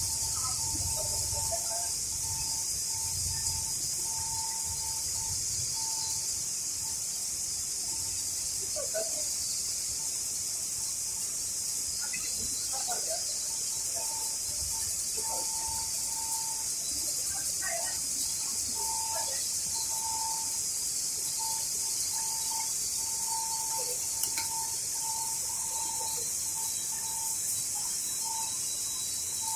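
Industrial microwave drying and sterilizing machine running: a steady high hiss with a squeaking tone that comes and goes in short, uneven pulses, and a few faint brief chirps.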